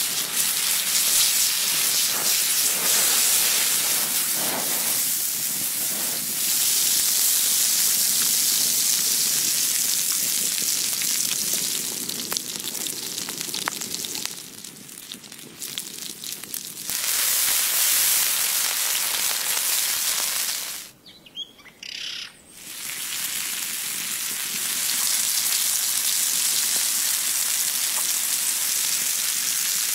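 Food frying in hot oil: a steady sizzling hiss, in several cut-together stretches with a short break about two-thirds of the way through.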